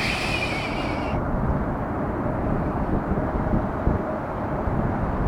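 Wind buffeting the microphone: a steady low rush with a flickering level. A short hiss of airband scanner static sounds in the first second, as a radio transmission ends.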